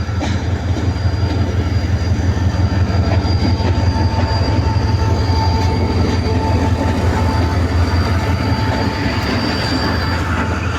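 Pakistan Express passenger train moving along the track: a loud, steady low rumble of the carriages, with thin, high, steady squealing tones from the wheels on the rails.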